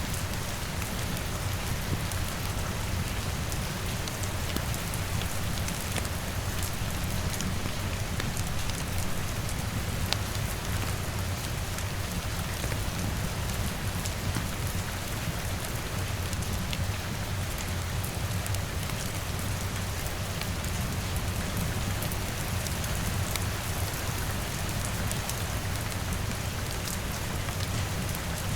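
Steady rain falling on a window, layered with a low steady rumble and scattered small crackles from a wood fire.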